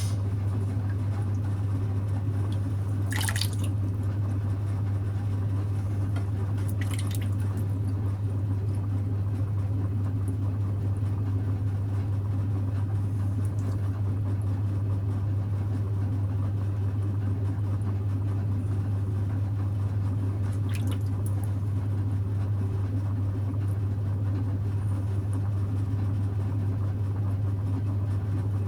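Electric potter's wheel running with a steady low hum, with wet squelching and dripping of clay and water under the potter's hands as a pot is thrown. A few short wet splats stand out about 3, 7 and 21 seconds in.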